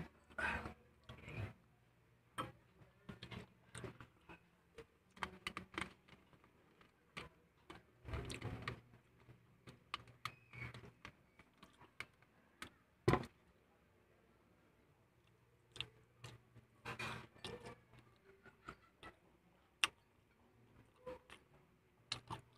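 Close-miked eating sounds: chewing fried chicken and rice, with irregular crunches, lip smacks and mouth clicks and a sharper knock about halfway through.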